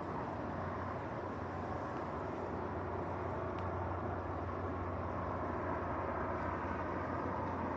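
Police helicopter flying overhead: a steady low drone of rotor and engine.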